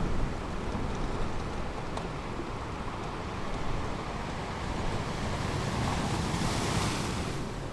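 Ocean surf breaking on a beach: a steady low rumble of waves, with the hiss of a wave washing up the shore swelling near the end. Wind buffets the microphone.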